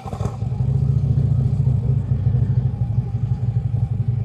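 A motor vehicle's engine running close by: a steady low rumble that comes in suddenly at the start.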